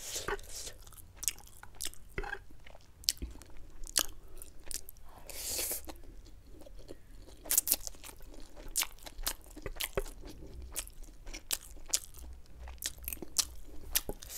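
Close-miked mouth sounds of a person chewing a mouthful of chicken chowmein noodles: many small wet clicks and smacks, with a short breathy noise about five seconds in.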